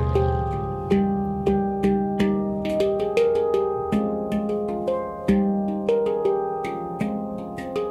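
F minor handpan played melodically: struck notes come several times a second, each ringing on with overlapping tones.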